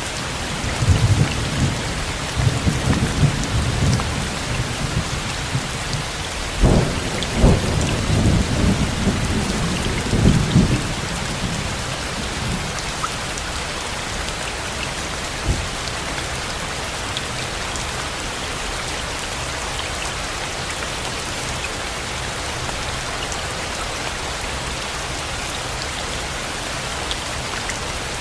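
Steady heavy rain with a roll of thunder through the first ten seconds or so, including two sharper cracks about seven seconds in; the rumble then dies away, leaving the rain alone.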